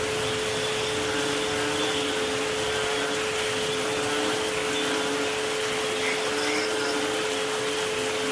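Steady rain-like hiss with two sustained pure tones at 432 Hz and 528 Hz droning evenly over it.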